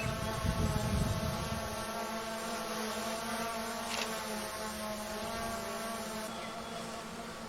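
A steady mechanical drone made of several held tones, with wind buffeting the microphone for the first two seconds and a single click about four seconds in.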